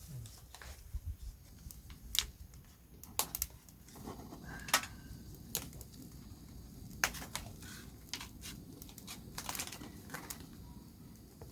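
Irregular clicks, taps and crinkling, as of objects being handled, with a few sharper knocks about two, five and seven seconds in.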